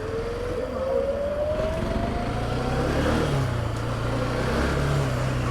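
Road traffic with wind noise and a low steady engine hum. A single whine rises slowly over the first three seconds, like a vehicle accelerating.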